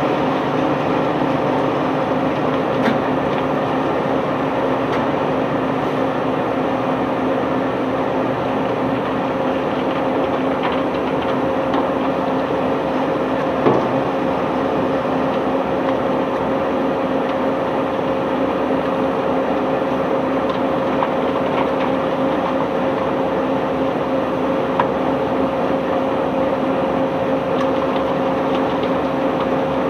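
Heavy diesel unloading machinery running steadily at constant speed, a drone with a steady hum, with a few faint knocks and one sharper knock about halfway through.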